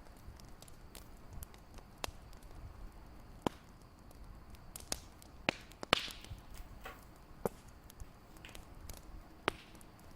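Wood fire crackling: irregular sharp pops and snaps over a low steady rumble, the loudest pop about six seconds in.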